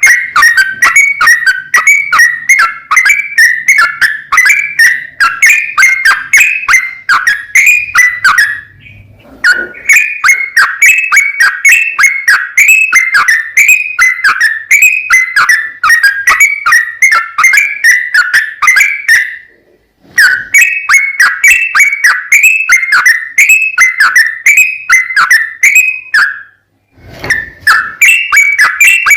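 Yellow-vented bulbul (cucak trucuk) song: loud, fast runs of repeated bubbling whistled notes, the rapid rolling 'ropel' style used as a lure to set other trucukan singing. The runs break off briefly three times, about 9, 20 and 27 seconds in.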